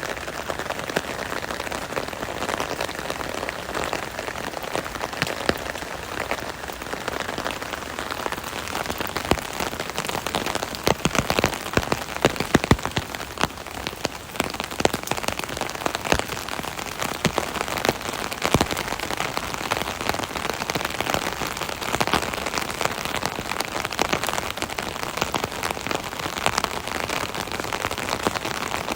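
Rain falling on an umbrella canopy overhead: a steady hiss of rain with dense individual drop taps, growing a little heavier about ten to thirteen seconds in.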